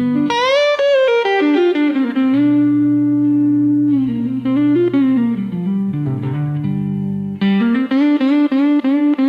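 Slow instrumental blues played on electric guitar. A lead line slides and bends between notes over held bass notes.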